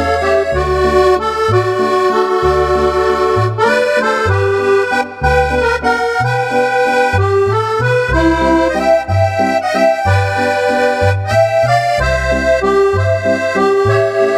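Roland 8x digital accordion playing a Cordovox-style voice: a held right-hand melody over a left-hand accompaniment of low bass notes alternating with short chord stabs.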